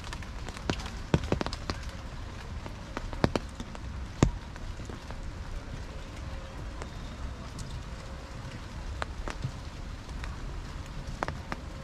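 Rain falling steadily, with scattered sharp drops striking close by at irregular moments, the loudest about four seconds in.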